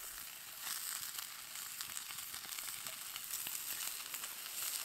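Torn hedgehog mushrooms sizzling in a hot cast iron skillet over a campfire: a steady frying hiss with scattered small crackles.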